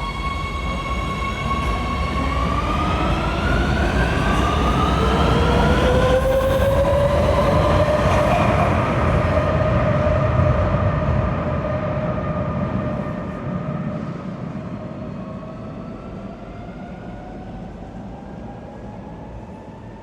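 Madrid Metro Line 2 electric train running in the station. The motors whine in several tones that rise in pitch over the first few seconds, then hold and slowly sink, over a low rumble of wheels on rail. It is loudest in the middle and fades off over the last several seconds.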